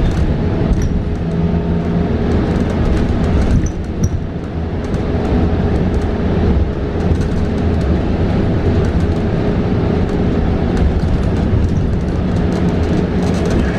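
Cabin noise of a 2022 New Flyer XE40 battery-electric bus under way: steady road and tyre rumble with a steady hum and light rattling clicks. It eases briefly about three and a half seconds in.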